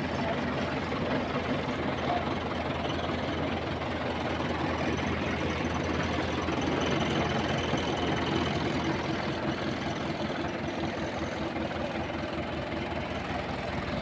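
Belarus tractor's diesel engine running steadily at a low, even speed with a knocking firing beat.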